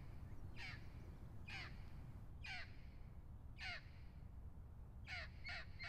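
A bird calling over and over in short harsh falling calls, about one a second, then three quicker calls near the end, over a low steady rumble.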